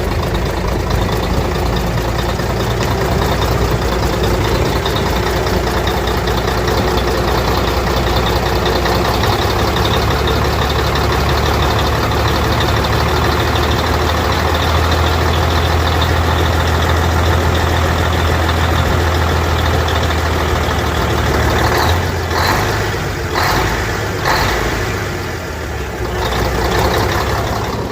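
Truck diesel engine running steadily at idle, loud and close, with a strong low hum. A few brief knocks and dips in level come near the end.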